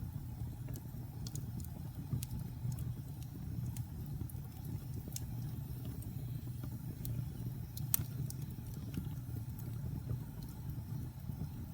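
Wood fire crackling in a fireplace: scattered sharp pops and snaps, one louder about eight seconds in, over a steady low rumble.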